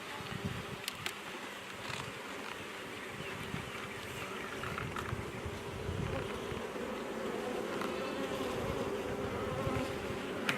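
Honey bees buzzing around an open hive, a steady hum that grows a little stronger about halfway through, with a few light clicks.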